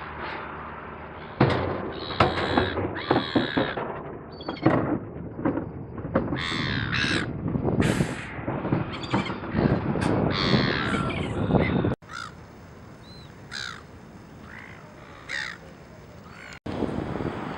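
A flock of gulls giving harsh, squawking calls, many overlapping. After about twelve seconds the calls drop to fewer, fainter ones.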